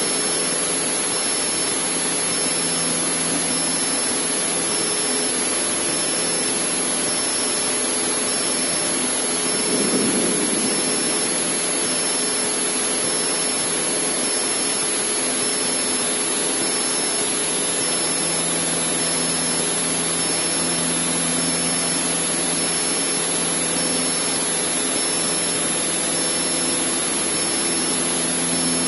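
Cessna 152's four-cylinder Lycoming O-235 engine and propeller running steadily at full power in a climb, heard inside the cockpit as a constant drone. A brief louder swell comes about ten seconds in.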